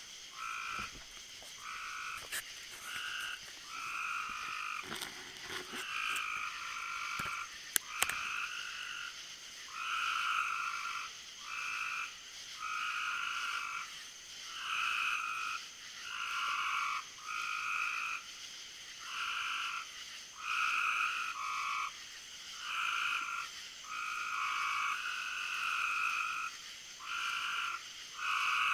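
Frogs calling in a chorus, the calls repeating about once a second, over a steady high-pitched drone; a few sharp clicks in the first eight seconds.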